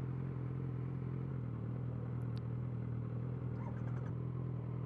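Suzuki GSX650F's inline-four engine running steadily at low speed, with an even low hum that dips slightly about a second and a half in.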